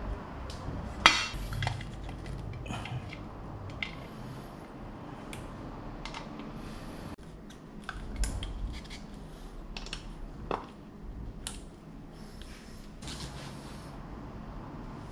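Irregular metal clinks, taps and knocks of hand tools and parts being handled, with one sharp clank about a second in.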